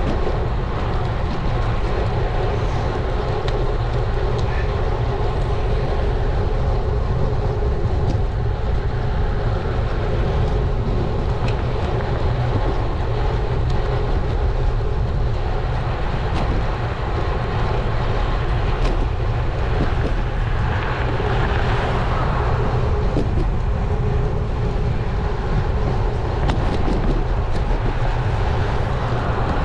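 Wind rushing over a bike-mounted action camera's microphone together with road-bike tyre noise while riding: a steady, loud low rumble with no breaks.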